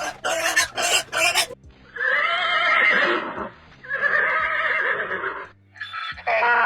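Animal calls: a quick run of short, sharp calls, then two long, wavering calls of over a second each, then short calls again near the end.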